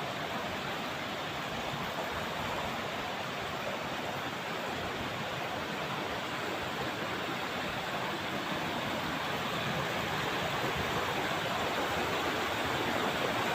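Swift river current rushing steadily, growing slightly louder toward the end.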